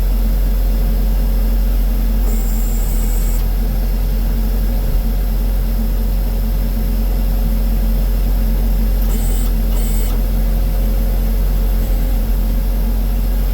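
2022 Case SV280B skid steer's diesel engine running steadily with an even low drone.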